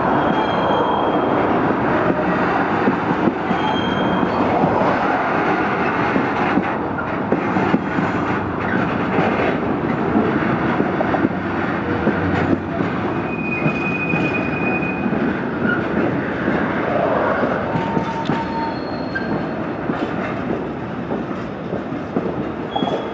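Long train of container flat wagons rolling past over the yard tracks: a steady rumble and clatter of wheels, with brief high wheel squeals now and then.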